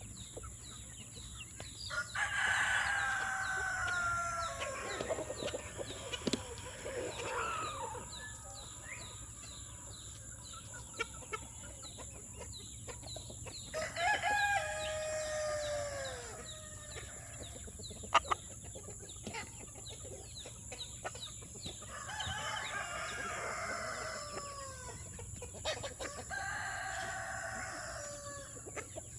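Roosters crowing four times, each crow a long call falling in pitch, with hens clucking in between. A sharp knock sounds just past the middle.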